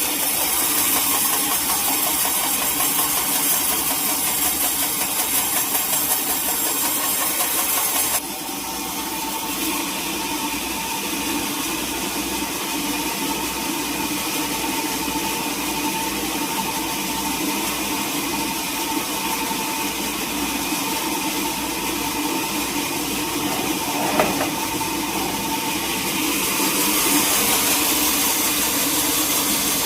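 Sawmill machinery running steadily. A loud hissing layer cuts off suddenly about eight seconds in, leaving a steadier whine, then comes back near the end. A single sharp knock comes about two-thirds of the way through.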